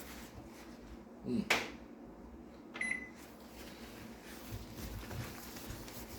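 A Panasonic Genius Prestige microwave's keypad giving a click and a short beep about three seconds in, with one loud knock about a second and a half in.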